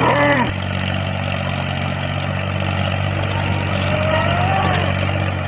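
Small engine of a DIY mini tractor running steadily, its note dropping slightly about half a second in.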